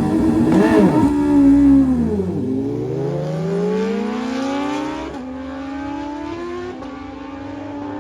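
Car engine blips its throttle, then pulls hard with a long rising pitch that drops at gear changes about five and six and a half seconds in, growing fainter as it moves away.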